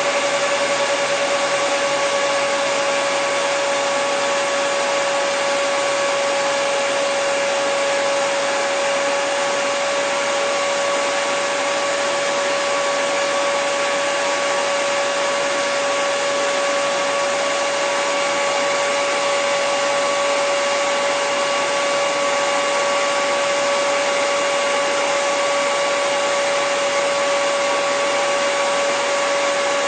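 Hair dryer running steadily, a constant rushing of air with a steady motor whine.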